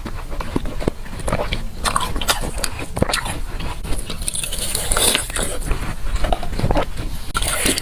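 Close-up biting and chewing of ice frozen in a water bottle: a run of irregular, crisp crunches.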